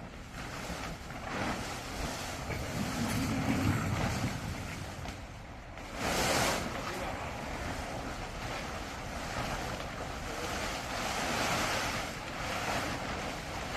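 Rushing noise of wind on the microphone, swelling and fading, with a louder gust about six seconds in.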